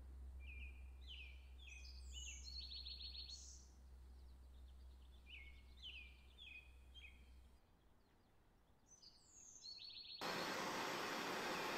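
A songbird singing faintly, two similar phrases of quick downward-sliding chirps that each end in a fast trill, over a low hum. About ten seconds in a loud, steady hiss starts abruptly.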